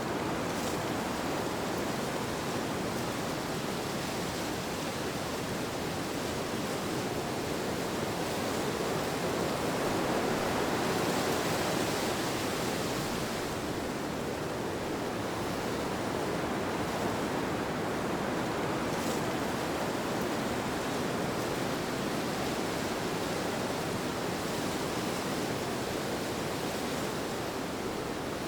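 Steady rushing wind ambience, swelling a little about halfway through and easing again.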